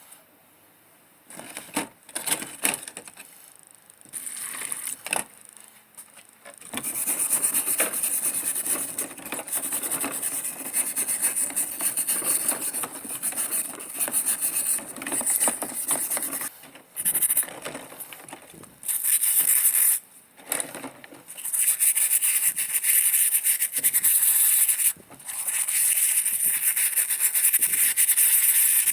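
Abrasive scrubbing on rusted lantern metal, rubbing the rust and oxidation off. A few short strokes at first, then long runs of steady scrubbing from about seven seconds in, broken by brief pauses.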